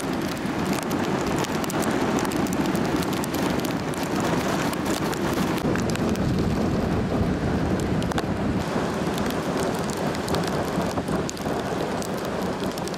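Steady rain falling, with many sharp drop hits over a constant rushing hiss.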